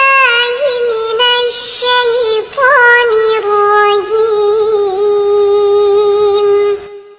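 A young girl's voice reciting the Quran in melodic tajweed chant, with ornamented turns and a long held note that stops near the end.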